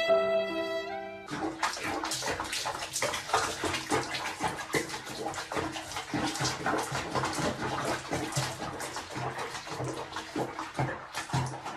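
Water running and splashing, a dense, irregular sound that starts suddenly after about a second of music that cuts off.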